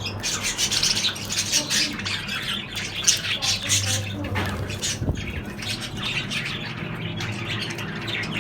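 A group of birds chirping and squawking, with many rapid overlapping calls.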